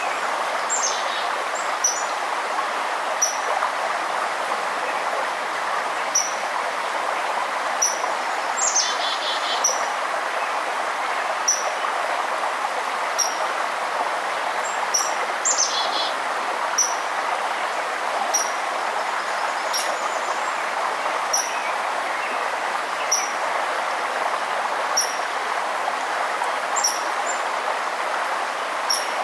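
Steady rush of a forest river, with a bird repeating a short high chirp every second or two throughout. Twice, about 9 and 16 seconds in, a second bird gives a longer call that falls in pitch.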